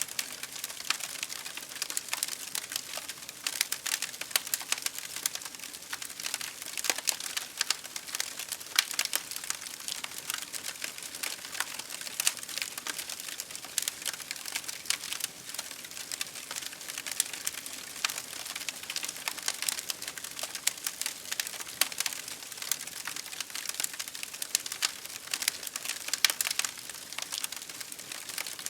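Campfire crackling continuously, with many small irregular pops over a steady hiss of rain.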